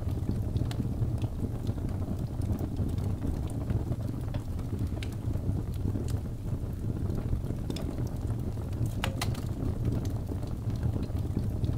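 Wood fire burning in a fireplace: a steady low rumble of flames with scattered crackles and pops, and a quick cluster of louder pops about nine seconds in.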